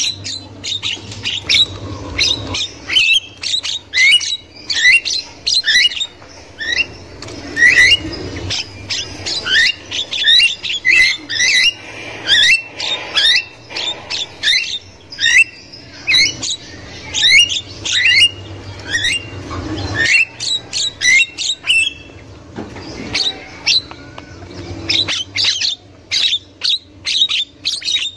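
Javan myna chattering and squawking: a dense run of short upward-sliding calls, several a second, with only brief pauses.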